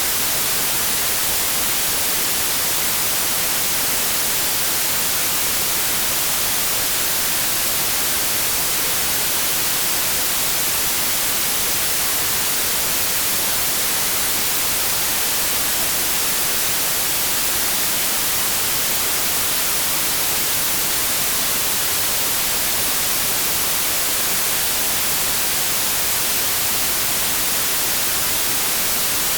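Electronically generated white noise: a steady, even hiss of static, strongest in the treble, unchanging throughout.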